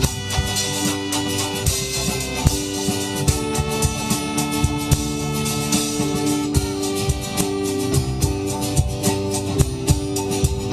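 Live band playing the instrumental intro of a folky rock song: guitar and held chord tones over a steady beat.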